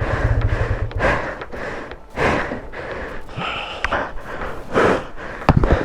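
A motorcycle engine runs with a low, even pulse for about the first second. After that a person breathes hard, in heavy gasps every second or two.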